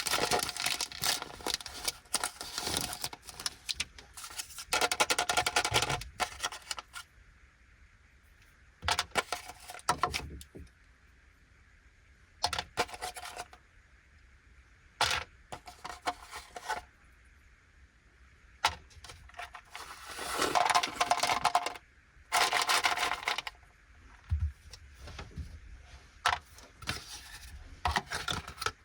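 Plastic candy packaging crinkling in handled bursts, with separate sharp clicks of small chocolates and the pack knocking on a plate in between.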